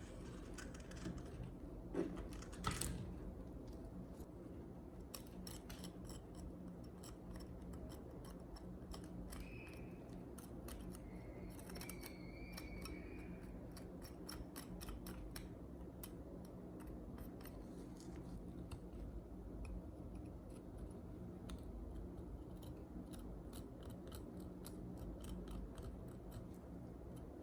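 Hand-tool work: a run of small sharp clicks and snips, with two louder knocks about two seconds in and a couple of brief squeaks near the middle, over a steady low hum.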